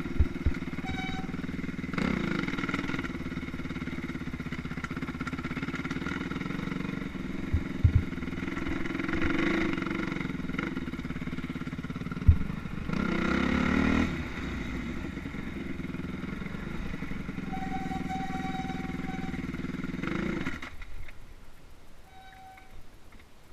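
Motocross motorcycle engines running, swelling louder as the bikes rev a few times, with a few short knocks; the engine sound drops away near the end.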